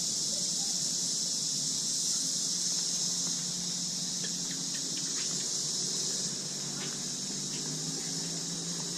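A steady, high-pitched chorus of insects that eases slightly about six seconds in.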